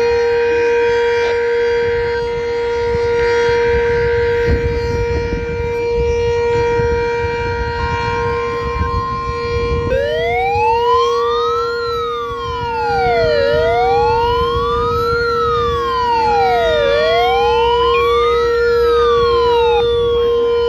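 Outdoor tornado warning sirens sounding a drill. A steady siren tone holds throughout. About halfway in, a siren begins wailing over it, rising and falling in pitch three times, roughly every three and a half seconds.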